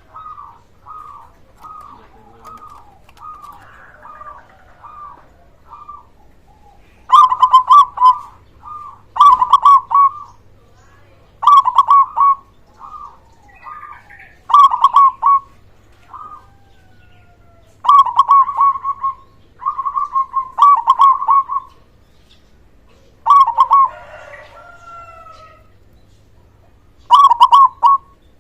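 Zebra dove (perkutut) cooing: a run of soft, quick coos for the first six seconds, then loud rolling coo phrases repeated every second or two. Fainter chirps come in the gaps.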